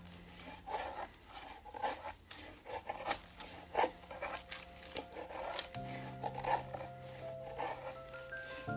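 Knife blade shaving thin curls down a wooden stick to make a feather stick: a series of short scraping strokes at an uneven pace, about one or two a second, over background music.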